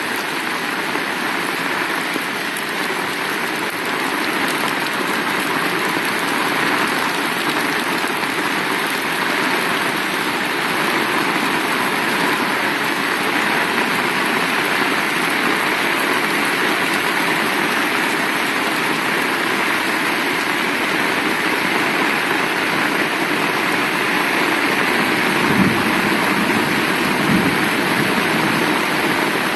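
Heavy rain falling steadily, a dense even hiss of downpour. A few low rumbles come near the end.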